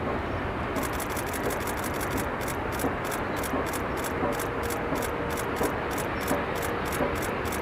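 Steady vehicle road noise, a constant hiss and rumble, with faint crisp ticks repeating at about three a second.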